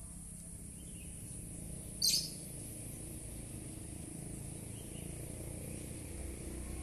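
Outdoor ambience: a steady high hiss over a low rumble, with one short bird chirp about two seconds in.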